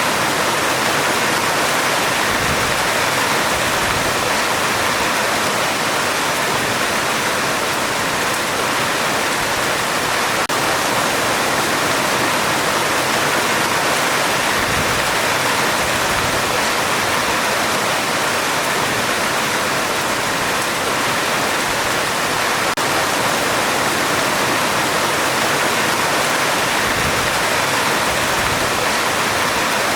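Heavy rain pouring steadily on a metal roof, an even, unbroken hiss of dense drops with no thunder.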